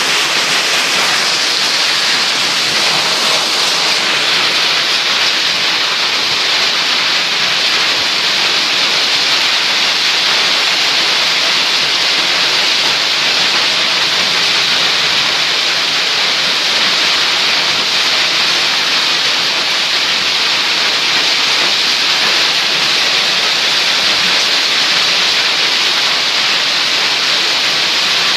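Heavy downpour of rain: a loud, steady, unbroken hiss of rain falling.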